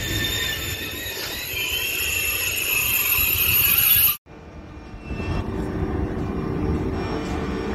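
SNCF TGV high-speed train rolling past along a station platform: a steady high whine with a squealing hiss from the wheels on the rails that grows louder for about four seconds, then cuts off abruptly and gives way to a quieter low rumble as the power car goes by.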